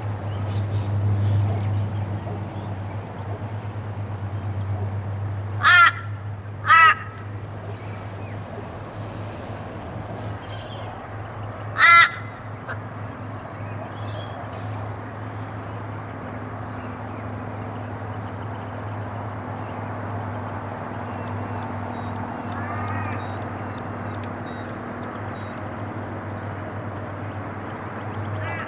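A bird calling out loud: two short calls about six and seven seconds in, a third at twelve seconds, and more near the end, over a steady low hum.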